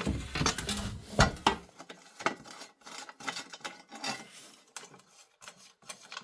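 Metal heat-shield plates from a Honda Varadero 1000 exhaust being handled and fitted together: scattered light clinks, knocks and scraping, busiest in the first couple of seconds.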